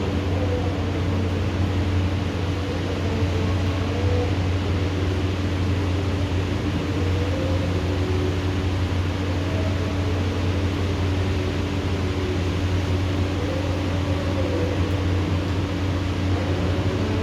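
Steady rain during a thunderstorm, an even hiss, over a constant low mechanical hum.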